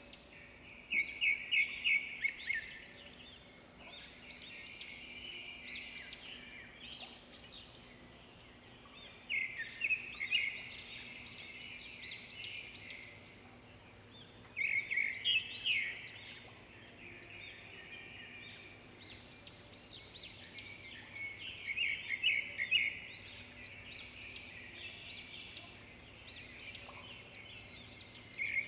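Birds singing: loud bursts of quick, high, chattering notes come every six or seven seconds, with softer chirping in between over a faint steady low hum.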